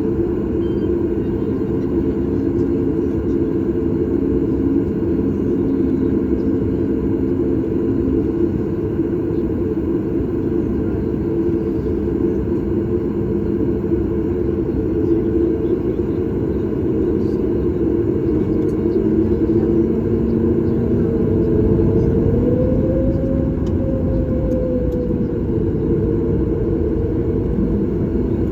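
Boeing 737 MAX 8's CFM LEAP-1B engines heard inside the passenger cabin: a steady, loud rumble carrying several steady engine tones. One tone rises and falls again about two-thirds of the way through.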